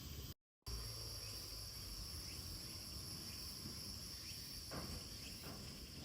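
Insects trilling steadily in a high, even drone, with a few faint short chirps over it. The sound drops out completely for a moment about half a second in.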